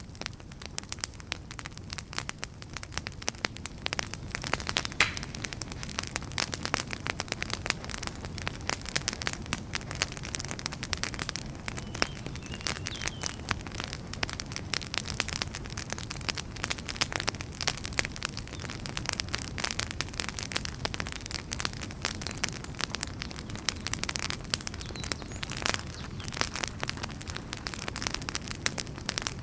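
A wood fire burning, with a steady low rumble of flames and frequent sharp crackles and pops from the burning logs.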